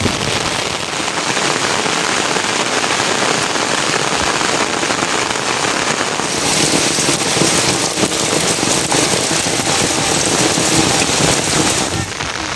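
Heavy rain falling and pattering on surfaces, a dense steady hiss that grows louder and brighter about halfway through, then eases slightly near the end.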